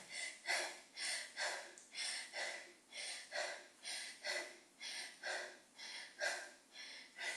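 A woman breathing hard and rhythmically while exercising: short breathy puffs about twice a second, in time with small pulsing lunge movements.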